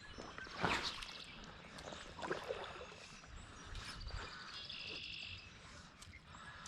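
Faint stream-side ambience: a brief splash about half a second in and a smaller one near the middle, with birds chirping a little later.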